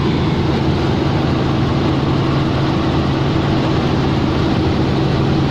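Helicopter engine and rotor noise: a loud, steady drone with an even low hum running through it.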